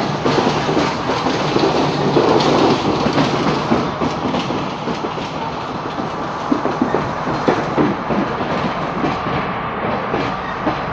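Passenger train running along the track, heard from an open carriage window: a steady rumble with irregular wheel clacks over rail joints, a little quieter after about four seconds.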